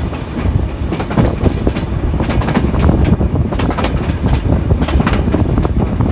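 Train running, heard from inside a passenger carriage: a steady low rumble with frequent, uneven clicks and clatter from the wheels on the rails.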